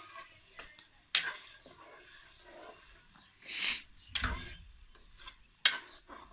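Cooking sounds at a karahi over a wood-fired chulha: scattered light clicks, three sharp knocks about a second, four seconds and five and a half seconds in, and a short hiss a little after three seconds.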